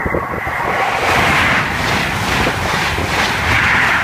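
InterCity 125 (HST) train approaching the level crossing at speed: a loud rush of wheel and air noise that builds from about a second in, over wind on the microphone.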